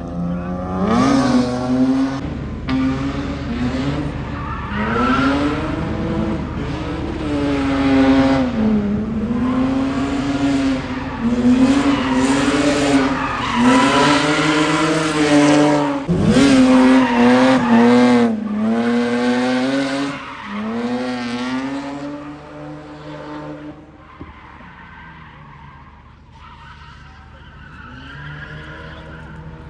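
Drift car sliding, its engine revving up and down as the throttle is worked while the tyres squeal. After about twenty-two seconds the tyre noise stops and the engine goes quieter.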